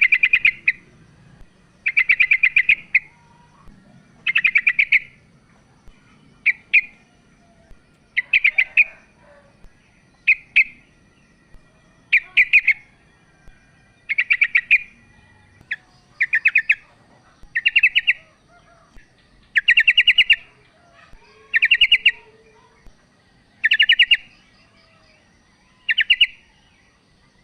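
Female yellow-vented bulbul (trucukan) calling: short, rapid chattering phrases about every two seconds, with a few brief single notes between them.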